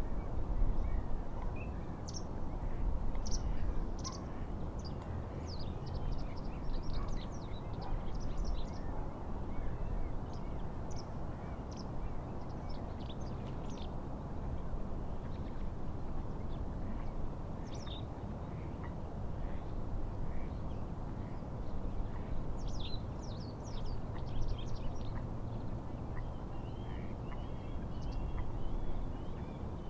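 Small birds calling in short, high chirps, coming in clusters, over a steady rush of wind and water at the lake shore.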